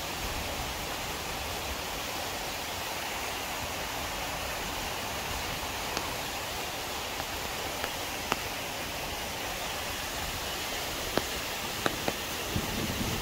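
Steady rushing of water from a mountain waterfall and stream, with a few sharp ticks in the second half.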